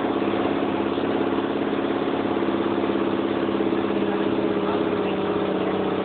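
Motor vehicle engine running at a steady speed, a constant drone with a slight shift in pitch near the end.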